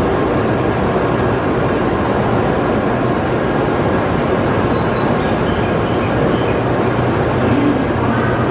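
Steady background noise of a busy railway station concourse, with a few faint voices near the end.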